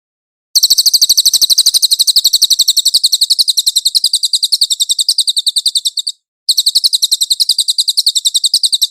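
Cililin bird singing: a fast, even trill of sharp high-pitched chirps, about ten a second, broken by a short pause about six seconds in before it resumes.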